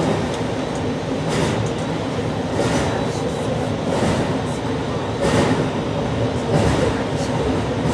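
JR Shikoku 8600 series electric train running at speed, heard from inside the front of the train: a steady rumble of wheels on rail with a regular swell about every second and a bit.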